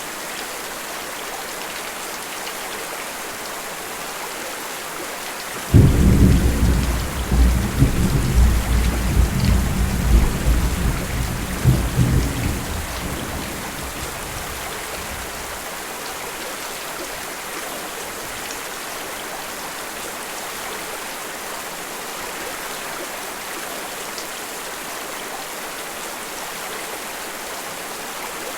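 Steady rain hiss, with a clap of thunder about six seconds in that starts suddenly, rumbles and rolls for several seconds, and fades away.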